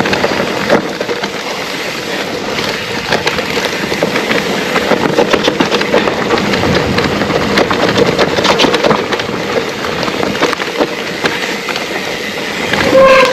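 Trek Rail electric mountain bike ridden over rough trail: tyres rolling over dirt and roots, with many small knocks and rattles from the bike over bumps and a steady faint hum underneath.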